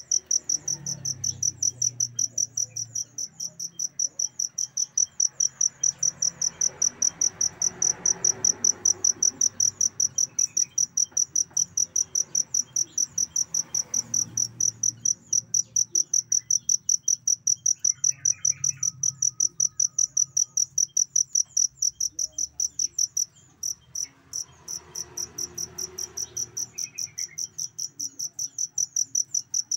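Cricket chirping, a loud, high-pitched pulsed song repeating about four times a second, with a brief break about three-quarters of the way through.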